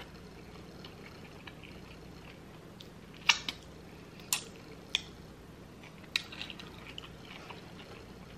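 Close-up chewing of a mouthful of food, with faint wet mouth sounds and a handful of sharp smacks or clicks between about three and six seconds in.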